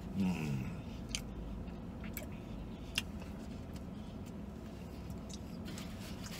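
A man chewing a mouthful of chicken sandwich with his mouth closed. A short low hum falls in pitch just at the start, and a few sharp mouth clicks follow over the next few seconds.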